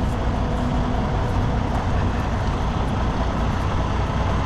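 Heavy diesel truck engine running steadily at a low, even pitch.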